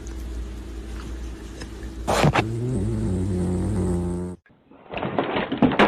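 A dog's drawn-out vocalization, wavering in pitch for about two seconds, starting about two seconds in, over a steady low hum. It stops abruptly, and different noisy sounds follow near the end.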